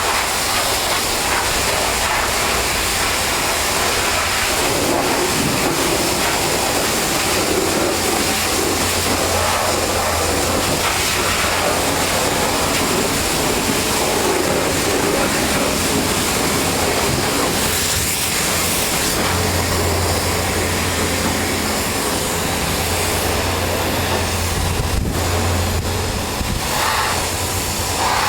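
Pressure washer spraying steadily: a continuous hiss of water spray over a low, steady machine hum.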